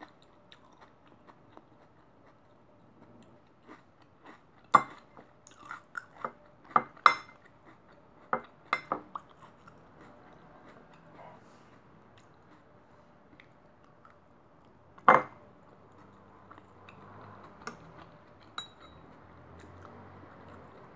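Close-up chewing of raw salad vegetables (crisp lettuce, cucumber and tomato), with sharp crunches bunched from about five to nine seconds in and one loud crunch around fifteen seconds, amid light clinks of chopsticks against a ceramic bowl.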